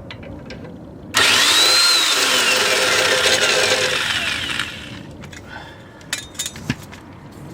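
Power tool, likely an impact wrench, running on the 19mm sway bar link nut. It starts abruptly about a second in with a whine that rises, then slowly falls, and fades out after about three and a half seconds. A few short clicks follow.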